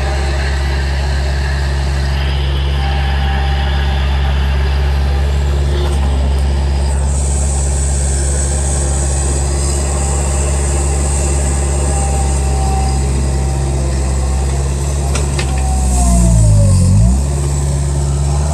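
Bobcat skid-steer loader's diesel engine running steadily under work. About sixteen seconds in it lugs down in pitch under a heavy load and then recovers.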